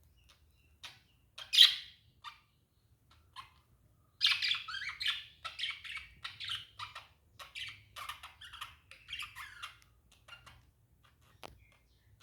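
Budgerigars chirping: a few scattered chirps with one loud squawk about a second and a half in, then a long run of rapid chattering from about four seconds in to near ten seconds. A single sharp click near the end.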